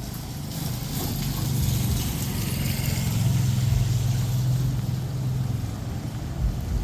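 A motor vehicle's engine passing close by: a low, steady hum that grows louder to a peak a little past the middle, then fades, over a steady hiss.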